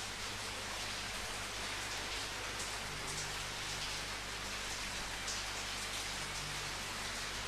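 Steady rainfall: an even hiss of rain with the spatter of individual drops.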